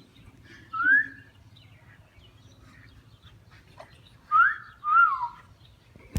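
A person whistling to call a dog: one short rising whistle, then a few seconds later a rising whistle followed by a rise-and-fall whistle.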